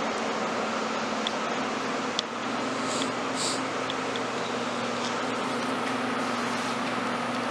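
Steady mechanical hum with a constant low drone and a hiss, broken by a few light clicks and ticks around the middle.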